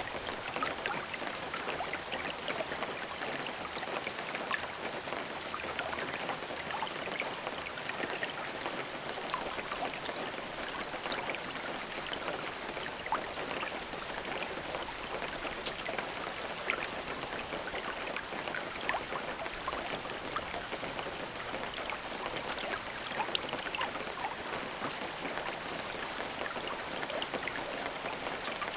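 Steady rain falling, an even hiss with many individual drops pattering.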